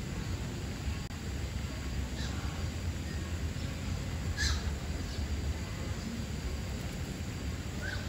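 A few short, high bird calls over a steady low rumble, the loudest about four and a half seconds in.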